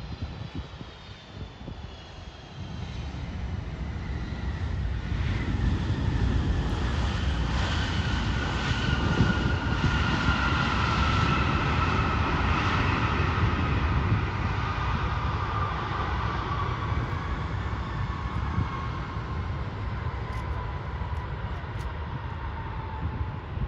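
Jet airliner passing by: a low engine rumble builds from about two seconds in, is loudest midway and then slowly fades, with whining engine tones that glide steadily down in pitch as it goes past.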